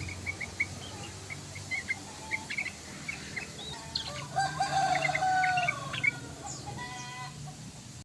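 Yellow-vented bulbul (trucukan) calling in short, quick chirps. A rooster crows once in the background from a little past the middle, a drawn-out call of about a second and a half.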